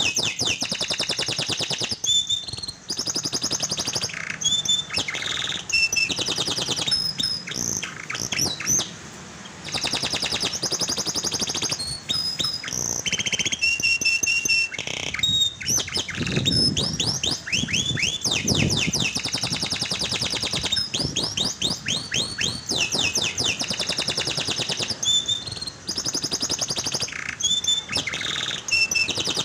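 Domestic canary singing a long, continuous song of rapid rolling trills and quick whistled sweeps. It is the kind of canary song played to coax silent canaries into singing.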